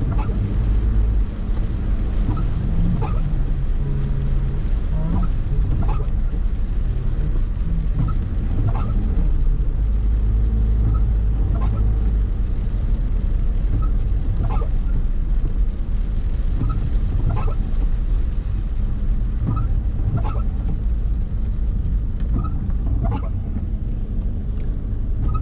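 Car on the move in traffic: a steady engine and road rumble, with brief faint chirps every second or two.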